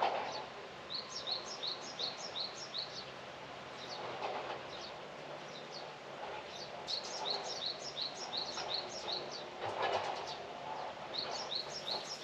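A small songbird chirps in quick runs of short, high, repeated notes, three runs in all. Soft swells of outdoor background noise come and go beneath them.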